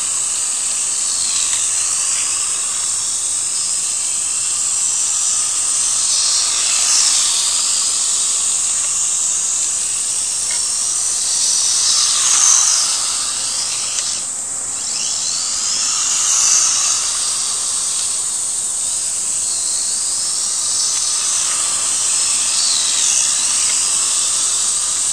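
Losi Micro Desert Truck's small electric motor and drivetrain whining at high pitch, rising and falling again and again as the throttle is worked, over a steady hiss.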